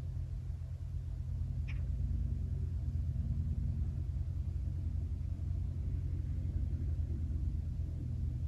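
Outdoor lakeside ambience: a steady low rumble with a faint hum in it, and one short high chirp a little under two seconds in.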